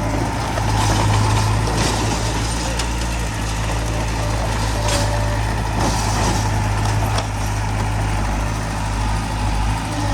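Heavy diesel earthmoving machinery running steadily at the work site, a low constant engine hum, with a few short noisy bursts over it around the first, second, fifth and sixth seconds.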